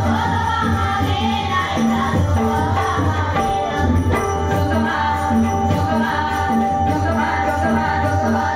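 Women singing a Marathi devotional bhajan in dabalbari style, with a drum and jingling metal percussion keeping a steady beat.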